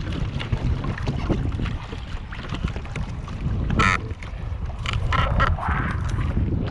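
Wind buffeting the microphone out on the water on a pedal kayak, a steady low rumble, with a short sharp sound a little under four seconds in and a few brief higher sounds soon after.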